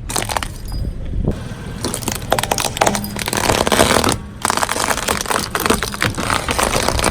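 A car tyre rolling slowly over something crunchy and crushing it, with a dense run of crackling and snapping that breaks off briefly about four seconds in and then resumes, over the low rumble of the car.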